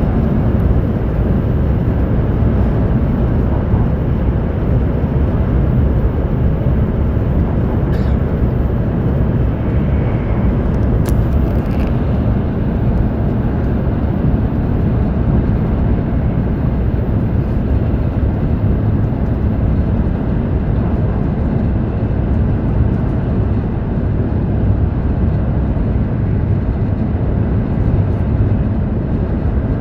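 Steady in-cabin rumble of a Hokuriku Shinkansen train running on the line, a dense low roar of wheels, track and air, with a couple of faint brief clicks partway through.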